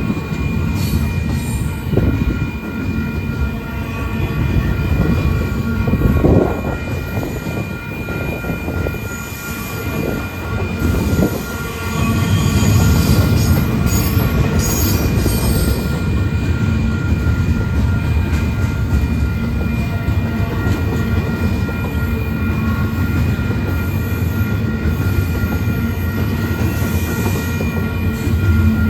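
A train's cars rolling past with a steady low rumble, the steel wheels squealing on the rails in several thin, steady high tones; the rumble grows louder about twelve seconds in.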